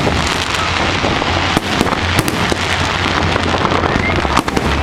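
Aerial fireworks going off continuously: a steady din of bursting shells with several sharper bangs standing out.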